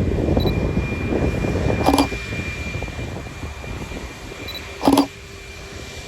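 Aircraft engine rumble that fades away over the last few seconds, with a thin steady high whine above it. Three sharp clicks cut through it: one at the start, one about two seconds in, and one about five seconds in.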